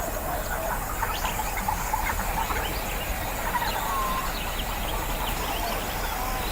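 Forest ambience: many short bird chirps and calls over a steady background hiss.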